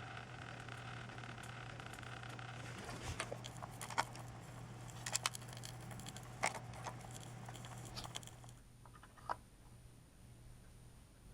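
Electrical buzz from a wall socket with a loosely connected wire, a laptop charger plugged into it, with sharp crackles from about three seconds in. The buzz cuts off at about eight and a half seconds, leaving a few single clicks.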